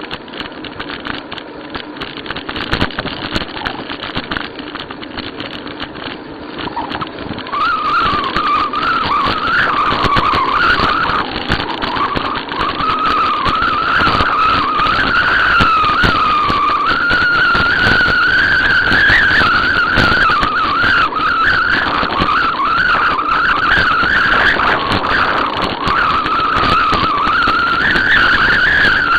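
Riding a bicycle: a steady rushing noise, joined about a quarter of the way in by a continuous squeal whose pitch wavers up and down, and the sound gets louder as it starts.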